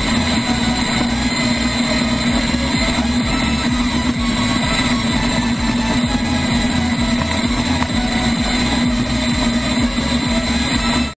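A steady engine drone holding one constant pitch, with no revving, that cuts off abruptly near the end.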